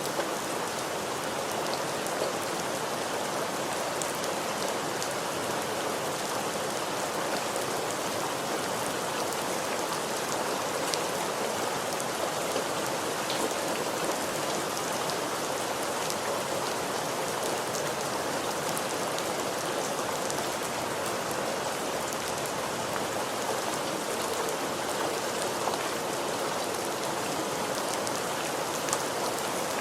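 Steady rain falling on a surface, a constant even hiss with many small drop ticks scattered through it.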